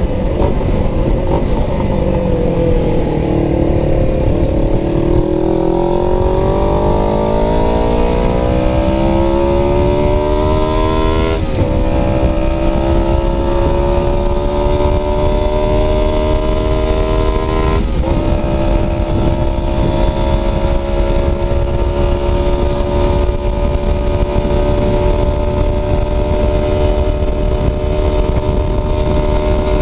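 Honda CB125T's twin-cylinder engine running through a fitted Suzuki GS400 muffler while riding. The revs fall at first, then climb, with two upshifts about twelve and eighteen seconds in, and then hold steady at cruising speed.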